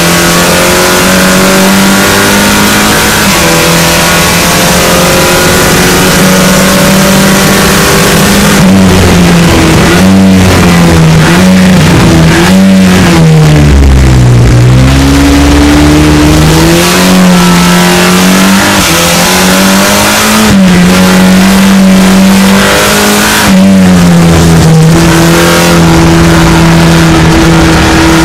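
SEAT León race car engine heard from inside the cockpit, running hard on a lap with its pitch climbing under acceleration. About halfway through the pitch wavers and dips, then jumps back up through a braking zone with downshifts, and it pulls up through the gears again with sudden steps at the shifts.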